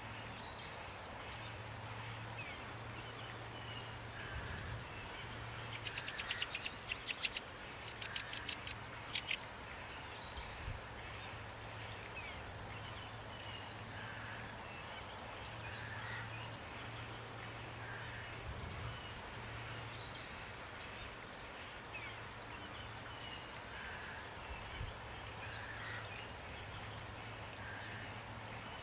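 Songbirds singing high, short, falling phrases over and over, with a rapid rattling trill about six to nine seconds in, the loudest part. Beneath them is a soft, even hiss of rain and a low, steady hum that drops out now and then.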